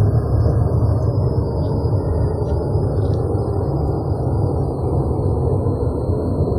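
A steady low rumbling drone, loud and unchanging, which the people hearing it cannot trace to any plane overhead.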